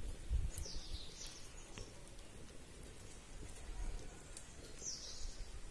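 Faint bird chirps, a few short falling calls, over a low rumble with a few light clicks.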